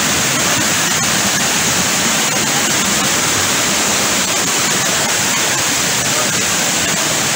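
Loud, steady rush of water from a stream flowing over rocks.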